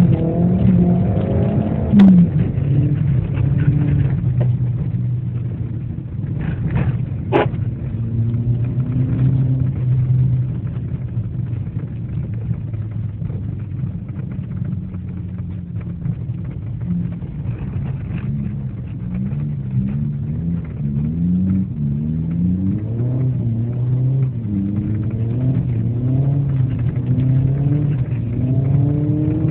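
Car engine heard from inside the cabin, its pitch rising and falling again and again as it revs up and eases off while driving. Two sharp clicks stand out, about two and seven seconds in.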